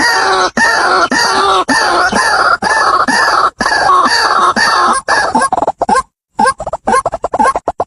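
White-breasted waterhen calling: loud, harsh croaking notes repeated about twice a second, breaking into quicker stuttering notes after about five seconds, with a short break near six seconds.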